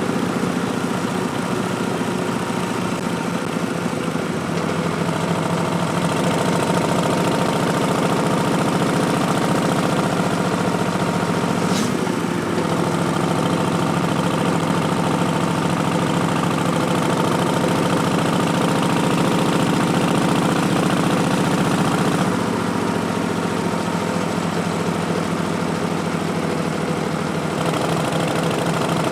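2019 Harley-Davidson Street Bob's V-twin, a Milwaukee-Eight 107 breathing through Vance & Hines Twin Slash slip-on mufflers and an Arlen Ness Big Sucker intake, running with a deep, steady exhaust note. It gets louder around five seconds in, drops back around 22 seconds, and picks up again near the end.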